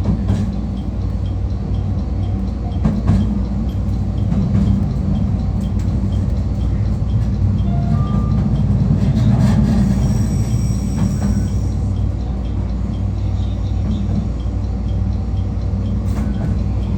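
Cab-end interior sound of a JR Kyushu 821 series electric train running on the rails: a steady low rumble and hum with scattered clicks as the wheels cross rail joints. A brief high-pitched squeal comes about ten seconds in.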